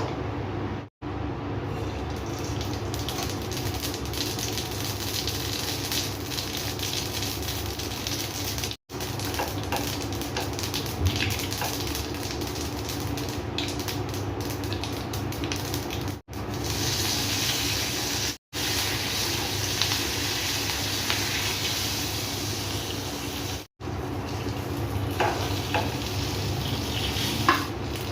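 Food sizzling in hot oil in a pan while being stirred, with a few small clicks of the spoon. The sizzle drops out briefly several times at edit cuts.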